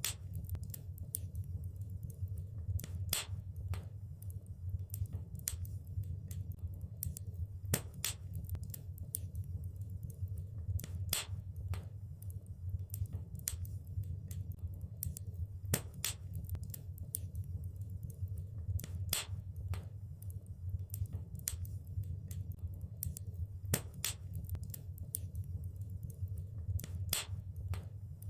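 Wood fire burning in a fireplace: a steady low rumble of flames with irregular sharp crackles and pops, a few louder snaps among many small ones.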